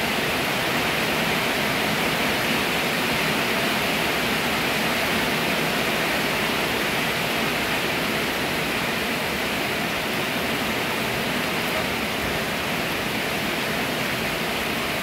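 Steady hiss of falling rain, even and unchanging throughout.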